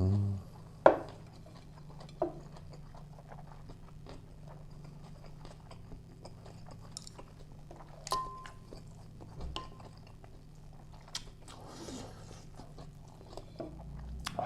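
A person eating noodles and food close to the microphone: chewing with scattered small clicks and a sharp, loud click about a second in. A faint steady low hum runs underneath.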